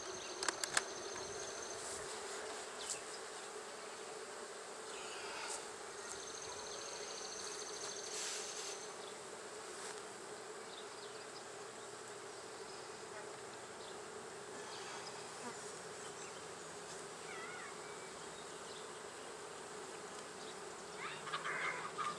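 Honey bees buzzing around an open hive, a steady hum, with a few faint clicks near the start and again about eight seconds in.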